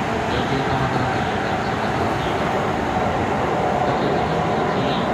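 Running noise of a Keikyu 600 series electric train heard from inside the passenger car while under way: a steady rumble of wheels on rail and running gear, with a steady whine through it and faint light ticks.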